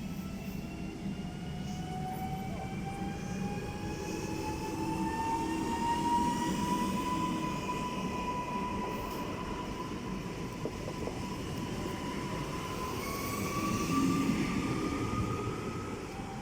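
A train passing at speed, its running gear rumbling under a whine that rises slowly in pitch throughout.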